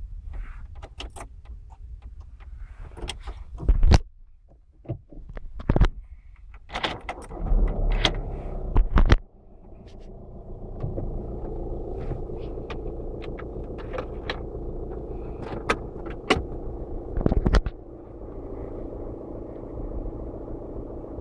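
Volkswagen Passat B6 cold start: clicks and key rattles, then a loud few seconds of starting about seven seconds in, which cuts off abruptly. The engine then settles into a steady cold idle with occasional clicks over it.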